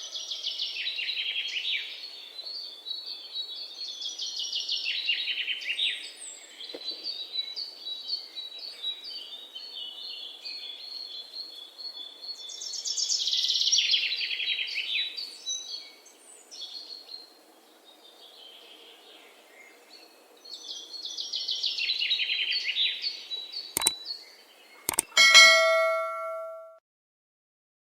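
Songbirds singing in repeated rapid trilling phrases every few seconds, over a faint steady background. Near the end, two sharp clicks are followed by a bright bell-like ding with several tones that rings for about a second and a half and then cuts off.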